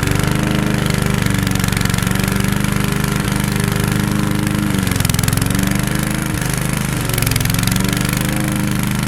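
Lawn mower engine running steadily, its pitch sagging briefly about five seconds in and again a little later before picking back up, as under load from cutting.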